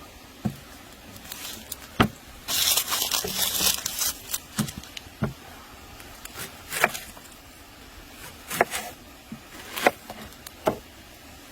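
Scattered sharp knocks and clicks, about a dozen, with a crackling rustle lasting over a second starting about two and a half seconds in.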